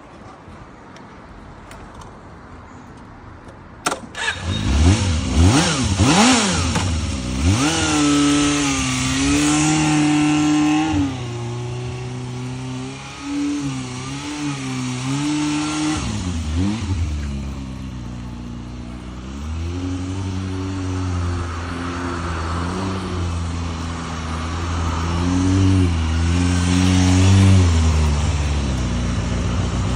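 Suzuki Bandit 250's inline-four engine started about four seconds in, then revved up and down several times in quick blips and held at raised revs for a few seconds. It settles to a steadier, lower run before rising again near the end.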